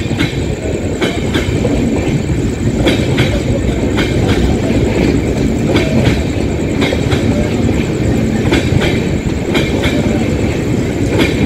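Passenger train of LHB coaches running through at speed: a steady heavy rumble of wheels on rail, with the clickety-clack of wheel sets crossing rail joints roughly once a second, often as a quick pair of clicks.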